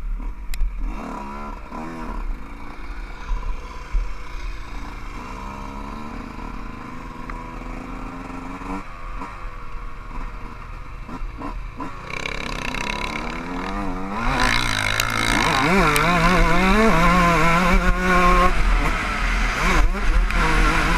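Motocross bike engine revving up and down as it is ridden round the track, pitch rising and falling with the throttle, with wind rumble on the microphone. The engine gets louder and busier about two thirds of the way in.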